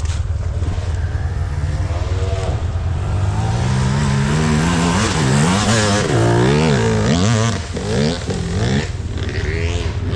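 ATV engine revving up and down again and again over a steady low rumble, loudest in the middle stretch.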